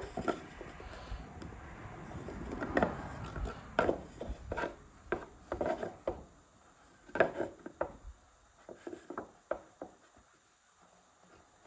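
Scattered knocks, taps and rubbing of a track saw and its aluminium guide rail being handled and felt along a wooden door, with the saw switched off. The rubbing is in the first few seconds; the taps thin out and stop near the end.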